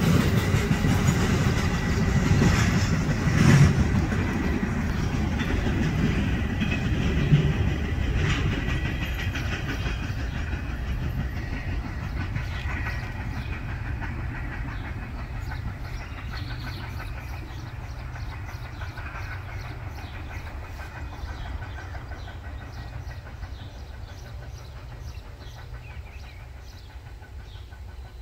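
Double-stack intermodal freight train rolling away, its wheels clacking over the rail joints. Its rumble fades steadily as the last cars recede, with two louder knocks in the first several seconds.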